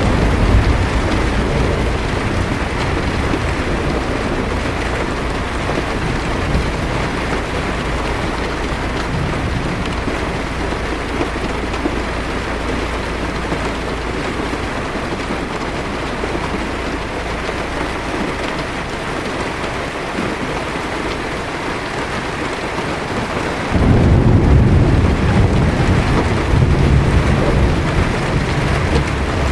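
Heavy rain falling steadily on a car's windshield and roof, heard from inside the car, with a low rumble of thunder that fades away. A louder thunder rumble starts suddenly about three quarters of the way through and keeps rolling.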